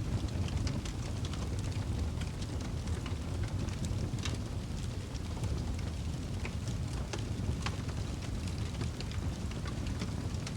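Wood fire burning in a fireplace: a steady low roar of flames with scattered sharp crackles and pops.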